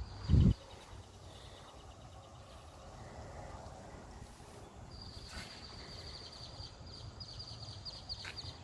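A single dull thump just after the start, then quiet outdoor ambience; about five seconds in, a high, steady, rapidly pulsing trill from an animal (bird or insect) comes in and runs on until near the end.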